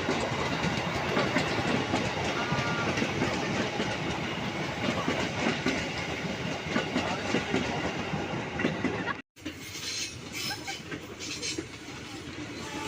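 A train passing close by, its wheels clattering over the rail joints in a dense, steady rumble. About nine seconds in, the sound cuts off abruptly and a quieter rumble follows.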